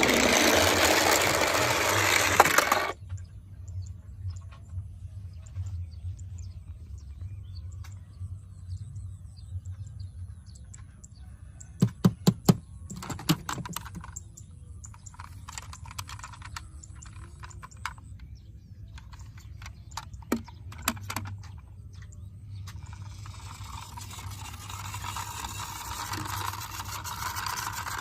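Small diecast and plastic toy vehicles being handled: scattered clicks and knocks of their parts, in a cluster about twelve seconds in and again around twenty seconds, over a steady low hum. A stretch of steady rushing noise fills the first three seconds and returns near the end.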